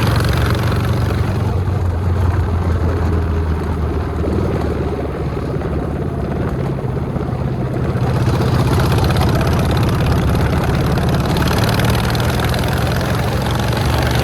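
Motorcycle engine running under way, with wind rush over the microphone. The engine eases off about four seconds in and picks up again about eight seconds in.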